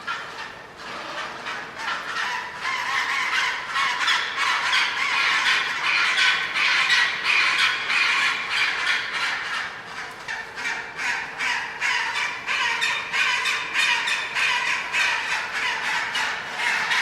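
A flock of birds calling over one another, many short rapid calls that thicken into a dense chorus after a couple of seconds.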